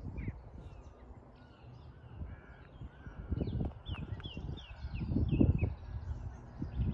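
Birds calling outdoors, with a quick run of about five short falling notes around the middle. Low rumbling noise swells on the microphone about three seconds in and again near five seconds.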